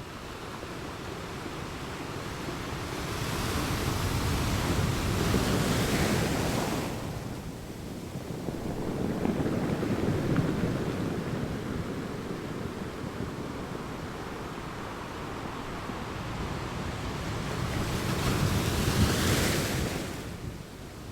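Waves breaking and washing up a sandy beach, with two swells of surf hiss, one about four seconds in and one near the end. Wind rumbles on the microphone underneath.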